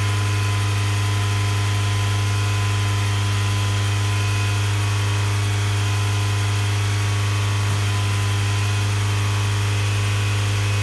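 A loud, steady machine hum, one unchanging low tone.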